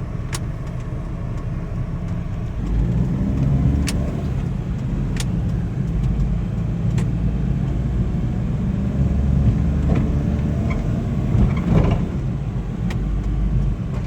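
Suzuki Carry kei truck driving under its small three-cylinder engine and automatic transmission: a low steady drone with road rumble, the engine note rising twice as it picks up speed, with a few sharp clicks.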